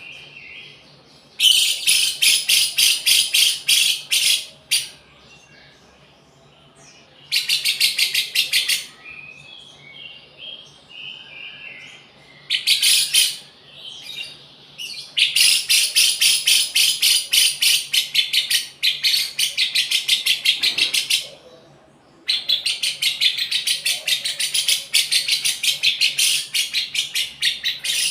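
A lovebird singing in long bouts of fast, evenly repeated shrill notes, about seven a second, several seconds at a time, with softer chirps between the bouts. Keepers call this song style 'rasa cucak jenggot', after the bulbul it imitates.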